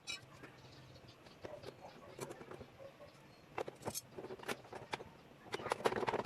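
Scattered metallic clicks and clinks of hand tools being handled, with a denser, louder clatter near the end.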